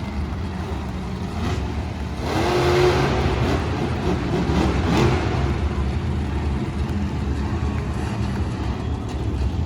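Monster truck engine running and revving, loudest from about two to five seconds in.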